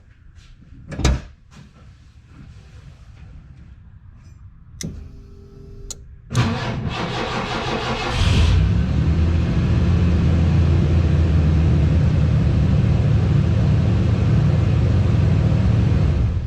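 A 1986 Mercury Cougar's 3.8-litre V6 is cranked by the starter for about two seconds, catches and then runs steadily, starting now that the fuel-pump inertia switch is bypassed with a jumper wire. A knock and a few clicks come before the cranking.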